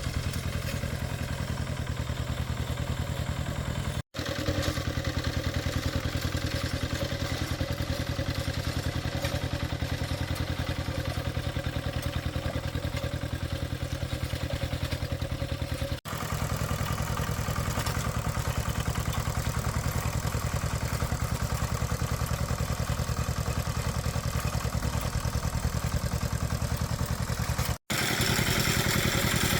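An engine running steadily with an even, rapid chug. It drops out abruptly three times where the recording is cut.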